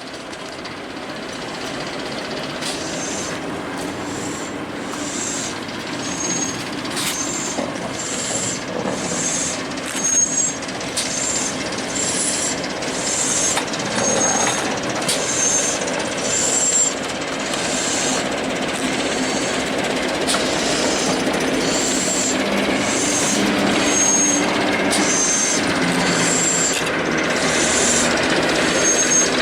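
Train running on the Severn Valley Railway line, its wheels clicking over the rail joints and giving short, high squeals again and again, growing steadily louder.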